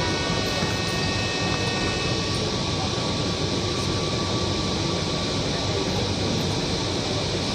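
Steady rumble and hiss inside a Kochi Metro train car. A cluster of thin, high electric whine tones fades away over the first two to three seconds, leaving the plain cabin noise.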